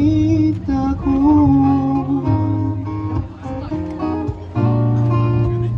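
Live band playing an instrumental passage: guitars carry the melody over sustained bass notes and keyboard, with no singing.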